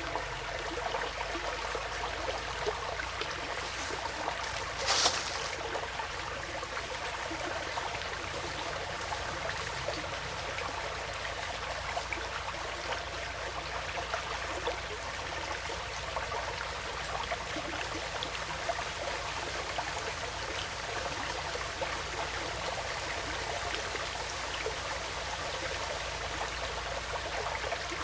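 Small woodland stream flowing and trickling steadily, with one brief louder burst about five seconds in.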